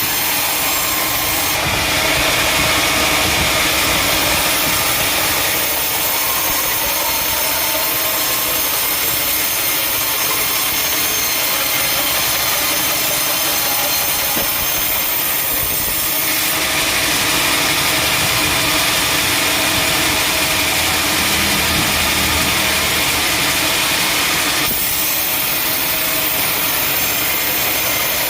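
Sawmill saw running steadily while cutting through teak, with two long stretches, a couple of seconds in and again from about the middle to near the end, where the cut grows louder and harsher as the blade works through the wood.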